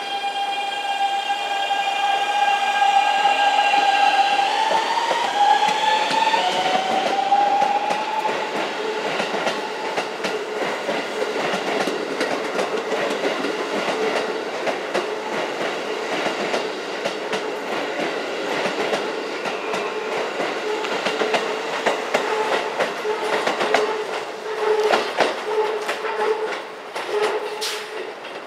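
Keikyu N1000 series train's Siemens GTO-VVVF inverter 'singing' as the train accelerates: its steady musical tones step up in pitch through the last notes of its scale in the first several seconds. The tones then give way to a steady motor hum and wheel clicks over rail joints, which grow louder near the end.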